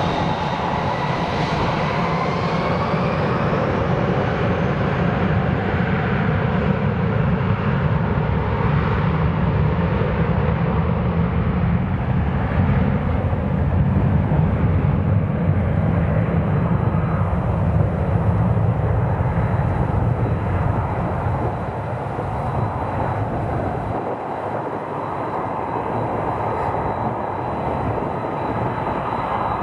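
Jet airliner engines running close by: a loud low rumble with a whine that shifts in pitch over the first few seconds. The rumble eases off after about twenty seconds.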